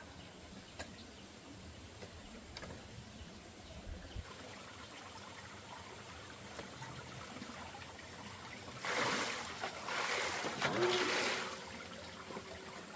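Water trickling, with a louder rush of water noise for about two and a half seconds starting about nine seconds in.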